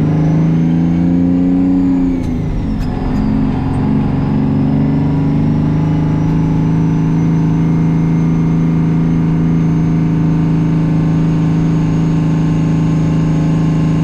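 Detroit Diesel engine running with a large turbocharger, a thin high turbo whistle over the steady engine note. About two seconds in the engine speed dips briefly and the whistle falls in pitch, then the engine runs steady while the whistle slowly rises again.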